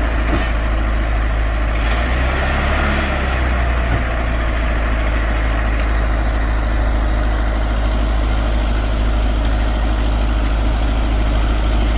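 Bulldozer's diesel engine running steadily under load, the machine held back by a thick forest vine, with a brief shift in the low engine note a couple of seconds in.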